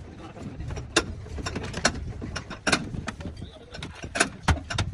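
Workshop tool noise: irregular sharp knocks and clicks, roughly one or two a second, a few ringing briefly, over a steady low rumble.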